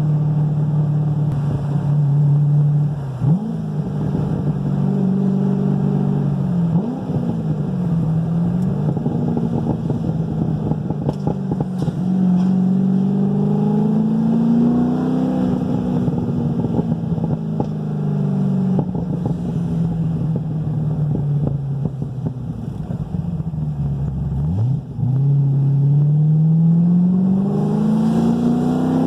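2010 Corvette Z06's cammed 7.0-litre LS7 V8 running through a new aftermarket exhaust while driving. Engine speed climbs slowly, with quick sharp drops and recoveries at about three, seven and twenty-five seconds, typical of gear changes.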